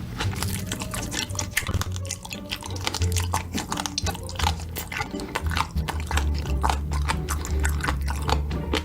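Close-miked mukbang eating sounds: dense, irregular wet chewing and mouth clicks, over background music with a low, steady bassline.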